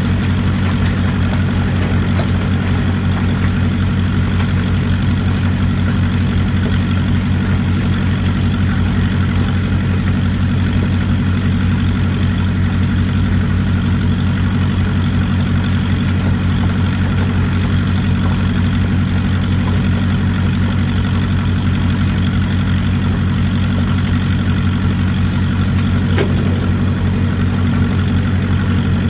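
Excavator engine running steadily at an even pitch, a constant low drone with a steady hiss above it.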